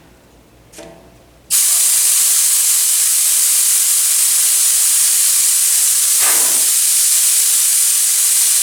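Compressed air hissing loudly and steadily out of an air compressor tank as it is bled down from about 90 psi, starting suddenly about a second and a half in.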